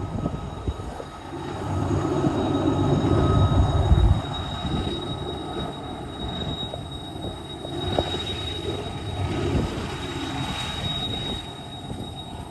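Union Pacific manifest freight train rumbling by on the climb, with gusts of wind buffeting the microphone; the rumble swells loudest a couple of seconds in. A thin steady high tone runs above it.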